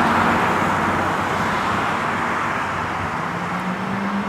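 Road traffic passing: one vehicle's tyre and engine noise fading away, and another engine's hum coming up near the end.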